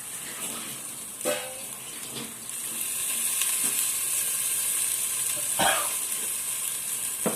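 Chili paste and spices sizzling as they fry in hot oil in a pan while being stirred. The sizzle gets louder a couple of seconds in, and there are a couple of short knocks.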